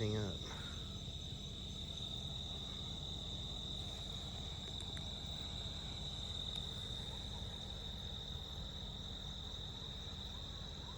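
Night insects, likely crickets, trilling in a continuous high-pitched chorus, over a low steady rumble.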